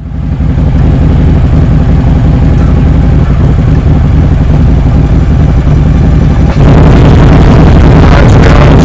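Harley-Davidson V-twin motorcycle engine idling close by, a steady low rumble that gets louder about two-thirds of the way in.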